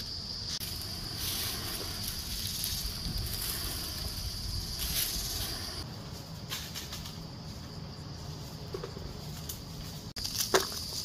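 Insects shrilling steadily at a high pitch, fading out about halfway through and coming back near the end, over a low rumble of wind on the microphone. A few sharp knocks and rustles come near the end.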